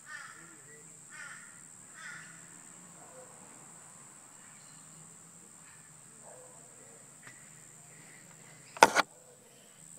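A bird calling three times, about a second apart, in the first two seconds. Near the end comes one sharp loud knock, the loudest sound, over a faint steady high whine.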